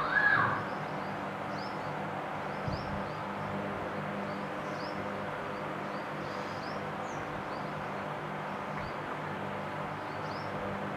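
Small birds chirping: many short, high, rising-then-falling notes, scattered throughout, with one louder swooping call right at the start. A steady low hum runs underneath.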